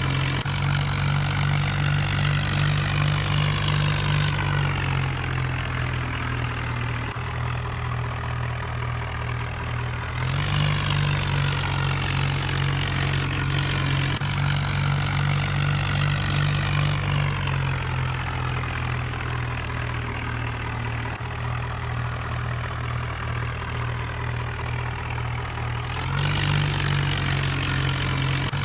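Tractor engine idling steadily, a constant low hum. Its tone shifts slightly a few times, with the treble dropping away and returning.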